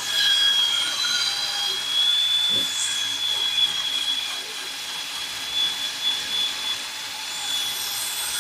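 High-pitched, steady whine of a high-speed power tool, its pitch wavering slightly, as it grinds out the front steering knuckle of a 2010 Nissan Murano after the hub assembly is removed.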